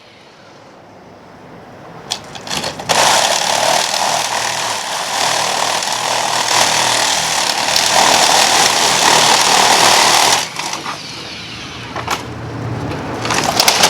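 A motorised tool or machine running loudly for about seven seconds, starting and stopping abruptly, with a few clicks before and after.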